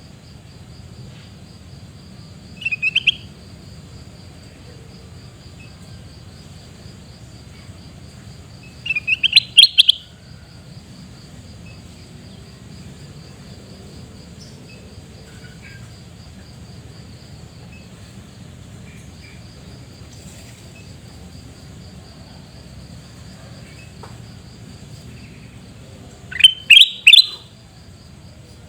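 Kutilang emas bulbul giving three short bursts of loud, quick chirping notes, the last the longest, over a steady pulsing cricket trill.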